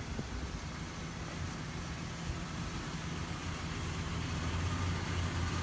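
Ford Explorer SUV engine idling with a steady low hum, growing a little louder about four seconds in.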